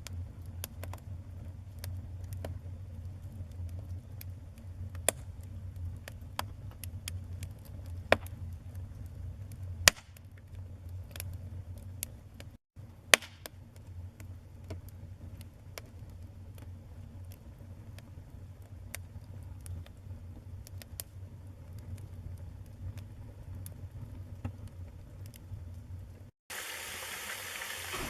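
Wood fire in a fireplace crackling, with irregular sharp pops and snaps over a low steady rumble of the flames, a few pops much louder than the rest. About two and a half seconds before the end, the sound switches to a steady hiss.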